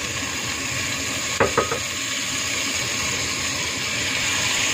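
Marinated beef and garlic sizzling in a hot oiled pot as water is poured in, a steady frying hiss that grows a little louder toward the end. About a second and a half in, two quick ringing clinks of dishware against the pot.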